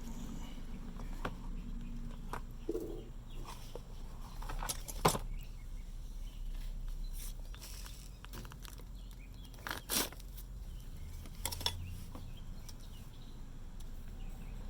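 Scattered light clicks and clinks of small parts being handled, with two sharper knocks about five and ten seconds in, over a steady low hum.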